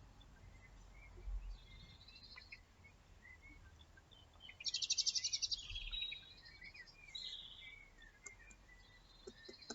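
Garden birds singing, with scattered high chirps and short phrases and a rapid trill about halfway through.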